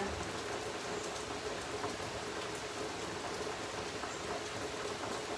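Steady rain falling, an even hiss, with a faint steady hum beneath it.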